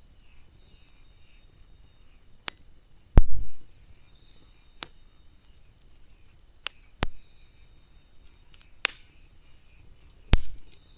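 Wood fire crackling: scattered sharp pops and snaps of burning wood a second or two apart, the loudest about three seconds in and again near the end.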